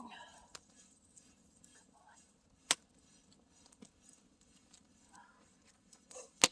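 Campfire burning with scattered crackles and two sharp pops from the wood, one a little under three seconds in and one near the end.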